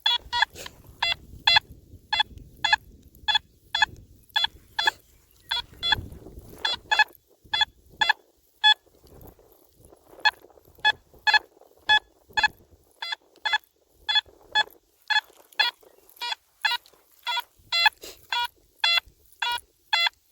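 Metal detector on a five-tone setting giving short repeated beeps, about two a second, with a short pause about nine seconds in, as the coil is swept back and forth over a buried target. The responses mix a low iron grunt with a mid-tone, a mixed signal that the detectorist thinks could be another silver dime.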